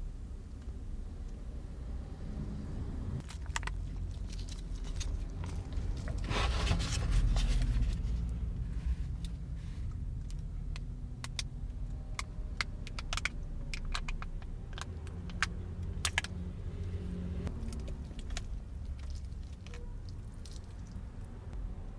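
Food containers and a utensil being handled inside a car: scattered sharp clicks and clinks, a louder rustle of packaging about six seconds in, over a steady low rumble.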